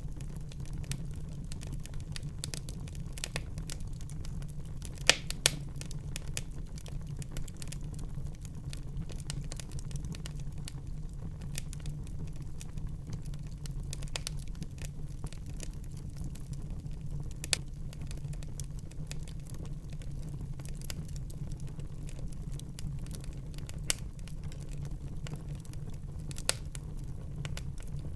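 Wood fire burning in a fireplace, crackling steadily over a low rumble, with a few sharper pops: two close together about five seconds in and three more scattered through the second half.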